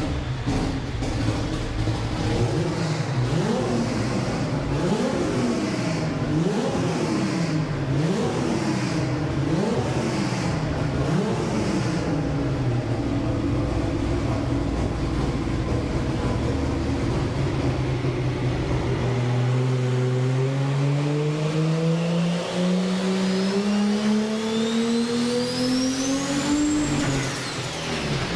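A car engine revved up and down over and over for several seconds, then running steadily. It then accelerates in one long, rising pull with a high whine climbing above it, and the pitch drops away near the end.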